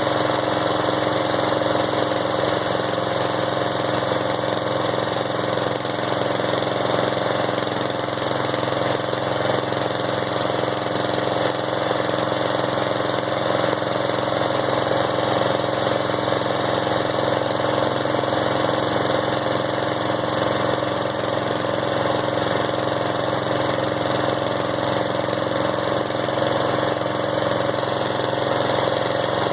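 Riding lawnmower's engine running steadily at an even speed, on the last of the fuel in its tank.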